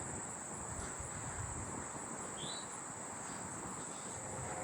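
Steady high-pitched trilling of a daytime insect chorus of crickets and katydids. About halfway through, a single short rising call of an eastern towhee cuts in.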